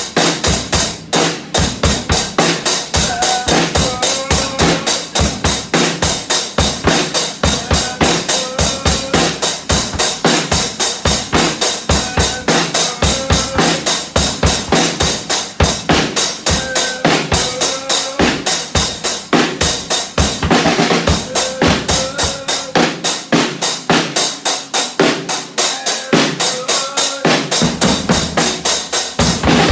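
Drum kit played in a fast, steady beat.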